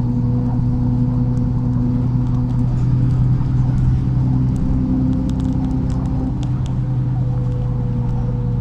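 MAZ-103 city bus engine running steadily while the bus drives, a low even drone, with scattered light clicks and rattles.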